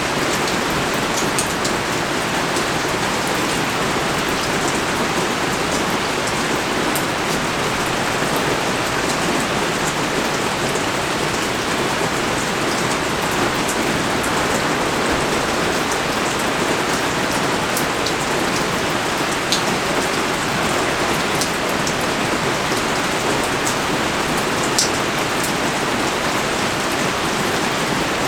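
Heavy rain pouring down steadily: a dense, even hiss, with scattered sharper drop ticks.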